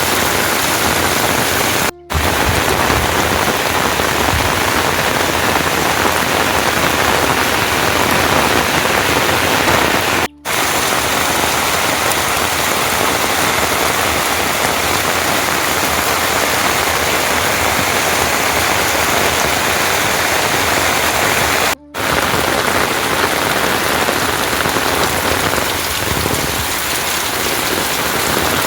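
Heavy rain falling steadily, a dense even hiss, broken three times by a brief dropout in the sound.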